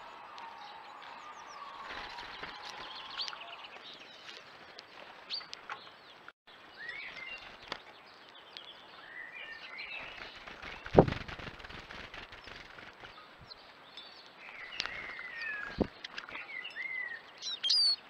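Small birds chirping and twittering in short calls over steady outdoor background noise, with a sharp knock about eleven seconds in, the loudest sound, and a smaller knock near the end.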